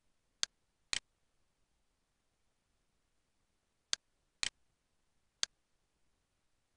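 Computer mouse button clicking five times, sharp and short: two clicks about half a second apart near the start, then three more from about four seconds in, spaced about half a second apart.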